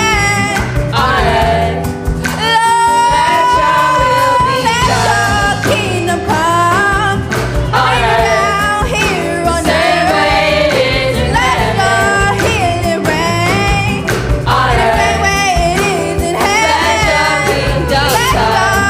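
Live gospel worship music: a singer's gliding vocal runs and a long held note over steady instrumental accompaniment.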